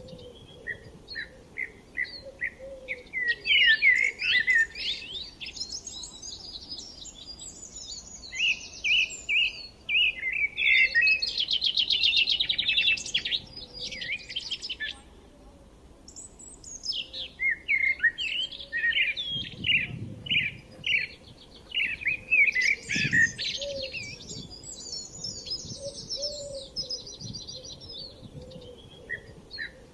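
Several songbirds singing and chirping together in overlapping phrases, some fast trills and rapid repeated notes, with a brief lull around the middle.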